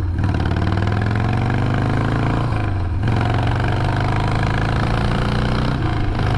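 2002 Harley-Davidson Sportster 1200's air-cooled V-twin accelerating hard in a short burst, the engine note climbing, dropping briefly at a gear change about halfway through and again near the end, then climbing again.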